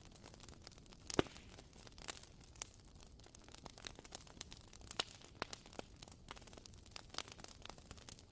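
WoodWick candle's wooden wick crackling like a small campfire: irregular sharp pops and ticks, the loudest about a second in.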